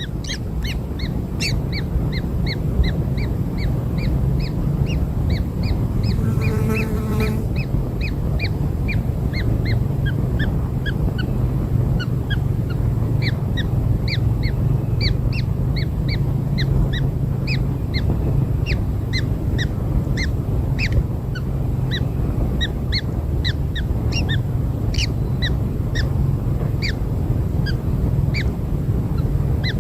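Newly hatched kingfisher chicks cheeping in short, high calls, several a second, over a steady low rumble. There is one brief, lower nasal call about seven seconds in.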